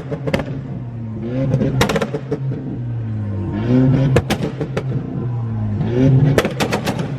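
A car engine revving again and again in surges that rise and fall in pitch, with sharp cracks among the revs, several of them in quick runs.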